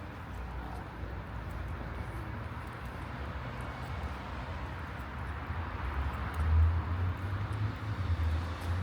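Night city street ambience: a steady low rumble with a light hiss, like distant traffic, swelling briefly about six to seven seconds in.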